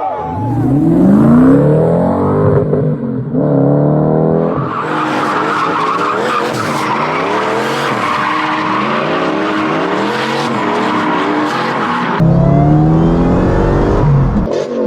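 Toyota/Lexus UZ-series V8 engines driven hard across a few cut-together clips: the engine revs rising sharply as the car accelerates, then a long stretch of tyre squeal under the running engine, then another hard acceleration near the end.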